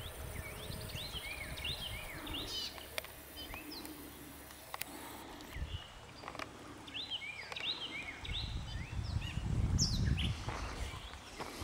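Birds chirping repeatedly in short high calls, over a low rumble on the microphone that grows louder for the last few seconds.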